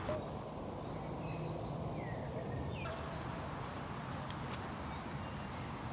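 Wild songbirds singing in woodland: short, high, descending trills repeated several times, over a steady low rumble.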